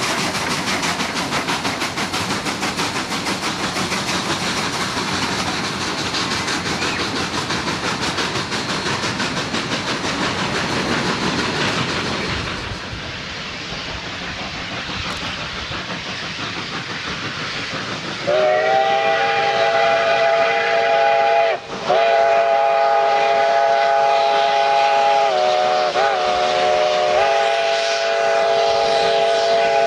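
A train running with a steady noisy rumble that eases off after about 12 seconds. About 18 seconds in, a train whistle starts sounding a long chord of several notes at once, broken briefly once and dipping slightly in pitch near the end.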